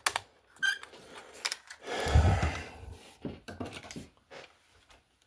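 Hands handling small plastic parts: light clicks and knocks, with a louder rustle about two seconds in.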